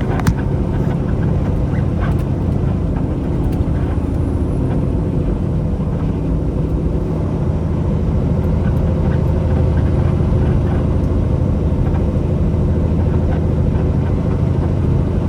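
Semi-truck's diesel engine running with road noise, a steady low drone heard from inside the cab. A single sharp click comes just after the start.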